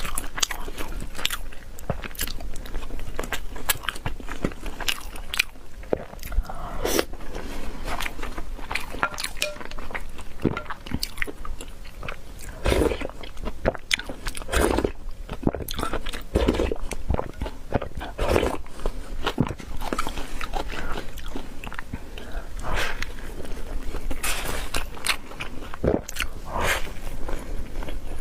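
Crunchy food being bitten and chewed close to the microphone: many irregular crisp crunches throughout, with a few fuller, louder ones in the middle.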